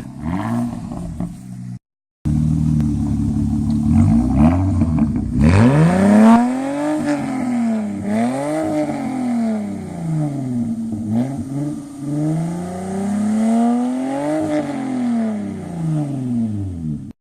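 Infiniti i30's 3.0-litre V6 exhaust through a 2.5-inch cat-back straight pipe. It runs steadily at first, then is revved so that its pitch rises and falls several times.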